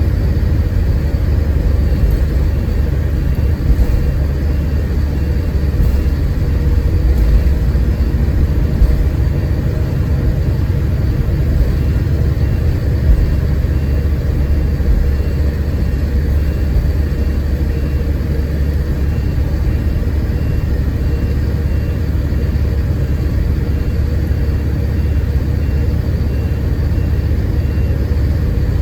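Scania K410IB coach running on the road, heard from on board: a steady low rumble of engine and road noise, with a few light knocks.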